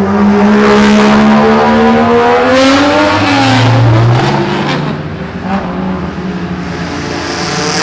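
Modified car's loud aftermarket exhaust as the engine revs and accelerates. The pitch climbs for about three seconds, drops, climbs again, then the sound eases off before it grows loud again near the end.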